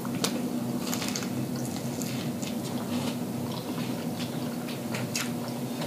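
Close-up eating of corn on the cob: biting kernels off the cob and chewing loudly, with many short wet clicks and smacks scattered through. A steady low hum runs underneath.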